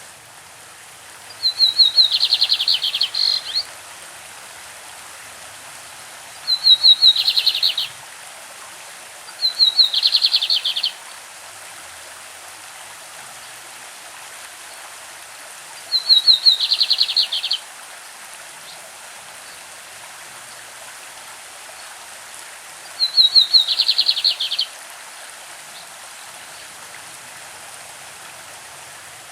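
Lined seedeater (bigodinho) singing its classic song: five short phrases with irregular pauses between them, each a fast run of high notes lasting one to two seconds. A stream rushes steadily underneath.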